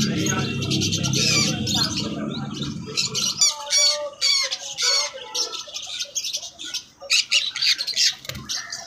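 A flock of birds chattering and squawking, with many sharp overlapping calls. A low hum underneath stops about three and a half seconds in.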